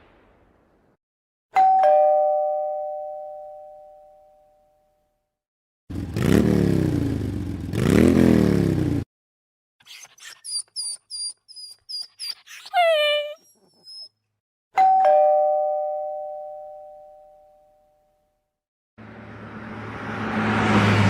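A two-tone ding-dong doorbell chime, rung twice, each ring fading out over about three seconds. Between the rings come other short everyday sounds: a noisy sound with two rising-and-falling glides, a quick run of short high chirps ending in a falling series of tones, and near the end a swelling noise with a steady low hum.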